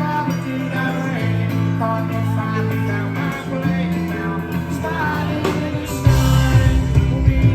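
Live rock band playing, with electric guitar lines over bass. About six seconds in the bass and drums come in harder and the music gets louder.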